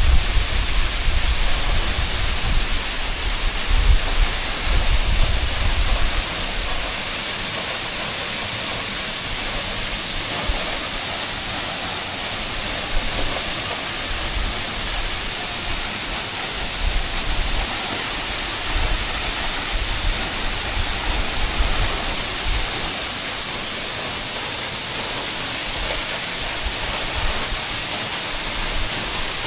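A waterfall about 20 m high pouring into its plunge pool: a steady, even rush of falling water. A low, gusty rumble sits under it for the first six seconds or so.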